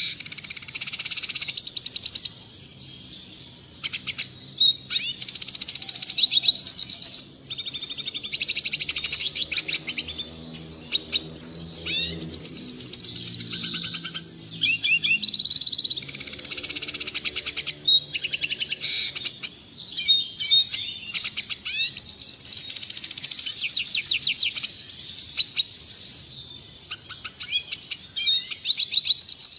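Red siskin song: a continuous stream of fast, high twittering trills and chirps, with only brief gaps.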